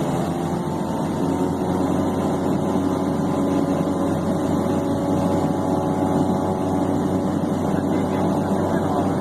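King Air B200's Pratt & Whitney PT6A turboprop engines running steadily at ground idle, a steady whine made of several steady tones over a rushing noise, growing a little louder after about a second.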